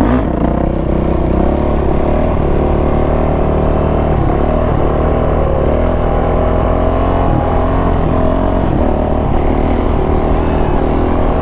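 Yamaha YZ450F's single-cylinder four-stroke engine running at low, fairly steady revs, its pitch wavering slightly with light throttle.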